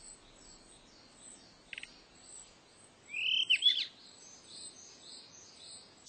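A yellow-rumped flycatcher parent calling to coax its chick out of the nest: a short call about two seconds in, then a louder call with a sweeping pitch a second later. Faint high chirps run in the background throughout.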